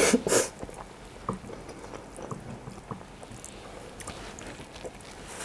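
Close mouth sounds of someone eating egusi soup and fufu by hand: a loud wet smack right at the start, then quiet chewing with a few small soft clicks.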